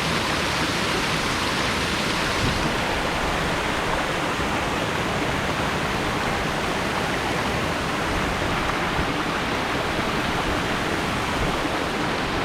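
Boyana Waterfall's water falling and splashing in a steady rush, its hiss a little duller from about two seconds in.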